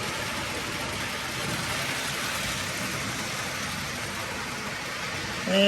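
Bachmann model train running on its track at about 95% throttle: a steady, even running noise from the locomotive's motor and wheels on the rails.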